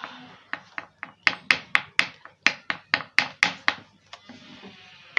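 Knife chopping egg finely on a cutting board: a quick, even run of sharp taps, about four a second, fading out about four seconds in.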